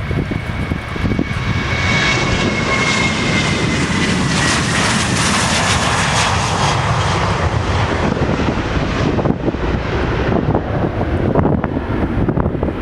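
Jet aircraft passing close by: a high engine whine sliding slightly down in pitch while the roar swells to a peak in the middle and then fades away, over low wind rumble on the microphone.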